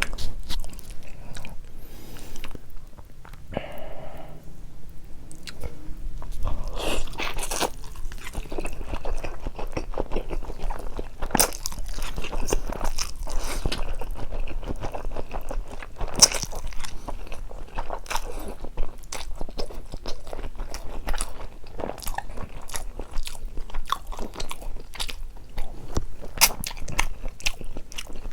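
Close-miked eating sounds: a person biting and chewing spicy carbonara noodles with ham and Vienna sausages, with many sharp crunches and wet clicks.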